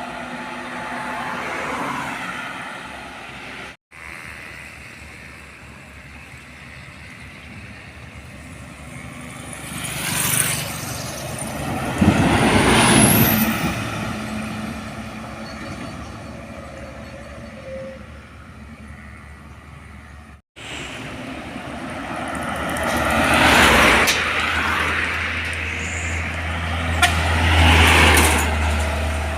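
Heavy diesel trucks passing one after another on a road, each swelling up and fading. There is a brief high rising whistle about 13 seconds in, and a low engine hum under the last pass-bys. The sound cuts off sharply twice.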